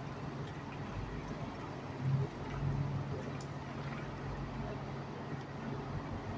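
Diesel engine of a Class 43 HST power car idling at a steady low hum while the train stands at the platform, with a brief louder swell about two seconds in.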